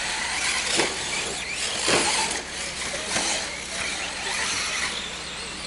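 Electric RC short course trucks racing on a dirt track: a steady hiss of motors and tyres with a few brief sharp sounds as trucks pass or land.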